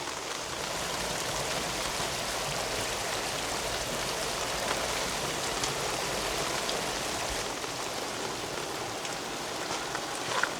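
Steady rain falling and pattering on stone pavement, an even hiss. A few footsteps begin near the end.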